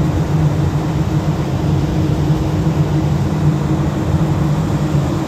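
Cargo ship's engine running steadily while the propeller is tested after repair. It makes a loud, even drone with a low hum that does not change.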